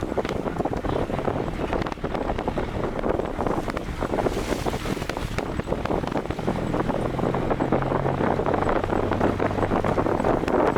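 Wind buffeting the microphone of a camera on a moving vehicle, with vehicle engine and road noise underneath. A low, steady engine drone comes up about two-thirds of the way in.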